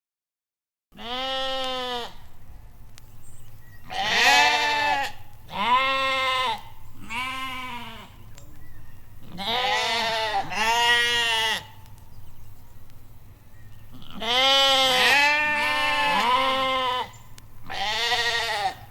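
Bleating livestock, about ten separate drawn-out bleats, some overlapping as if from more than one animal, each rising and falling in pitch; they begin about a second in.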